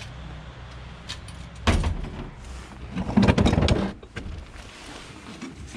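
Scrap being handled: a sharp knock, then about a second of loud clattering and rattling, over a low steady hum.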